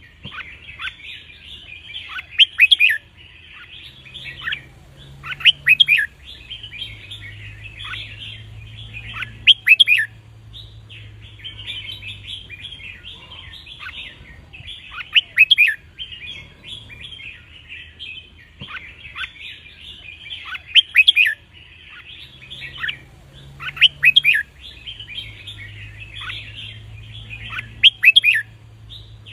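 Red-whiskered bulbul song: a continuous chattering warble with a louder song phrase of quick sweeping notes about every three to five seconds, seven in all.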